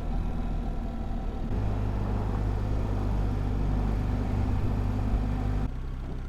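BMW R1300GS boxer-twin motorcycle engine running on the move, a steady low engine note. The note steps up and grows a little louder about a second and a half in, then drops back near the end.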